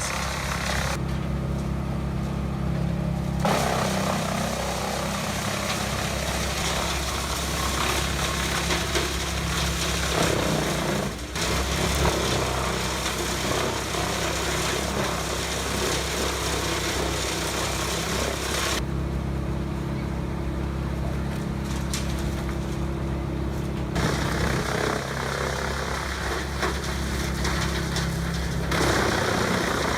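Tractor-driven wood chipper running, with a steady engine drone under the rough noise of branches being chipped. The chipping noise drops away twice, from about a second in to three seconds and for several seconds past the middle, leaving the drone.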